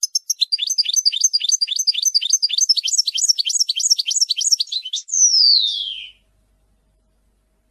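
Lovebirds chirping rapidly, about five short falling chirps a second, followed about five seconds in by one long, loud falling whistle-like glide that ends about a second later.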